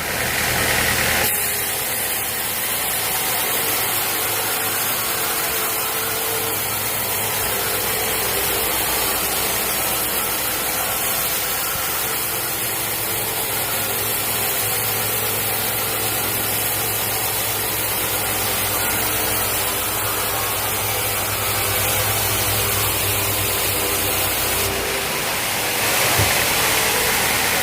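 Sawmill saw machinery running steadily: a continuous loud hiss over a low motor hum, changing abruptly about a second in and again near the end.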